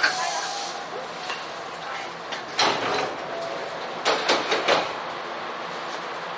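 Electric train standing at a platform, heard from the driver's cab: a steady hum, a sharp hiss of air at the start, then short bursts of hissing and clatter, one just under halfway and several in quick succession later on.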